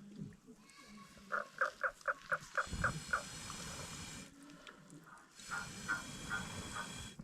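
An animal calling: a quick run of short, evenly spaced pitched notes, about four a second, then a slower run of similar notes near the end. A steady rushing noise runs underneath.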